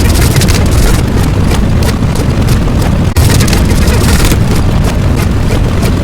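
Loud, continuous low rumble with a rushing hiss, broken by a short dip about three seconds in.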